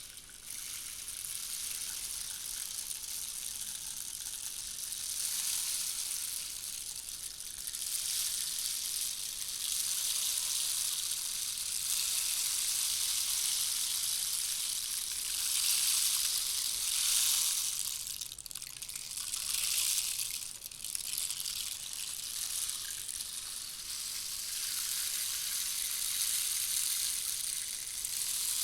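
Handmade rainstick, a 290 mm tube, played so its fill pours down inside. It makes a continuous rain-like rush that swells louder in the middle and dips briefly twice before running on.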